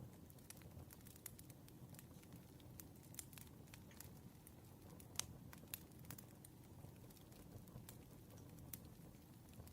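Faint crackling campfire: scattered sharp pops and snaps over a low, steady rumble, one louder pop about five seconds in.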